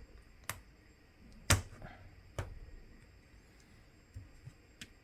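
OnePlus Nord N10 mid frame being pried away from the phone, its clips snapping loose in a few sharp clicks, the loudest about a second and a half in, with fainter ticks near the end.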